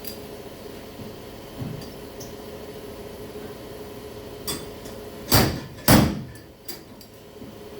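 Two loud hammer blows on the pickup's steel quarter panel about half a second apart, a little over five seconds in, with a few lighter taps and clicks around them. A faint steady hum runs underneath.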